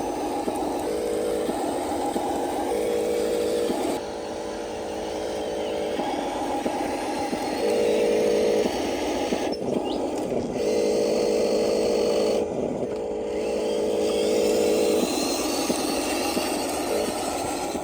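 Geared electric motors of radio-controlled construction models whining in spurts, starting and stopping several times as the machines are worked.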